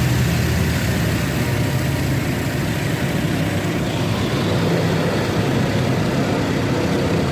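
Car engine idling steadily inside an automatic car wash, under a continuous rush of noise from the wash machinery.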